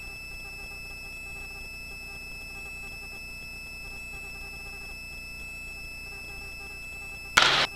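Faint steady electronic hiss with a few thin, constant high-pitched tones: the idle line of a helicopter headset intercom while nobody is transmitting. A brief burst of noise comes near the end.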